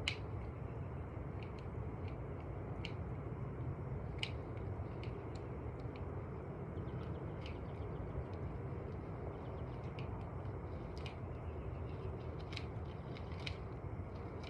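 Hand pruning shears snipping holly branches: short, sharp clicks about once a second, uneven in spacing, over a steady low hum.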